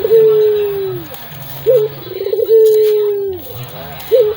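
Puter (domestic collared dove) cooing in a repeating phrase: a short up-and-down note, a quick stuttering run of notes, then a long drawn-out coo that drops in pitch at its end, about two phrases.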